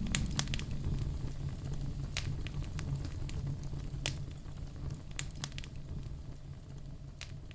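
Log fire crackling in a fireplace: scattered sharp pops and snaps over a low rumble of flames, gradually growing quieter.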